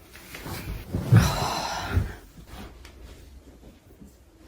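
Someone sitting down: a soft thump about a second in, then about a second of rustling and a second low thump.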